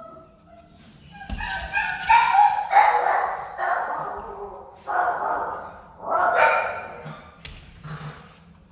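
Dogs barking repeatedly, a run of barks and higher yips about a second apart.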